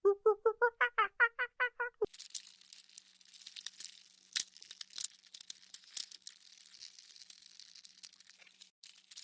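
An animal giving a quick run of about a dozen repeated calls, about six a second, cut off abruptly about two seconds in. It is followed by a steady dry crackling and rustling with scattered sharp clicks.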